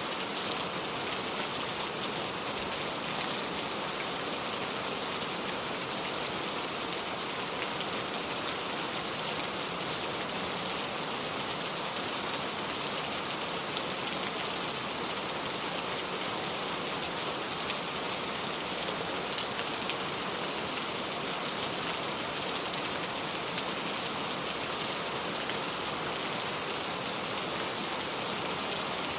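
Heavy rain pouring steadily onto a surface, a dense even hiss with fine drop patter.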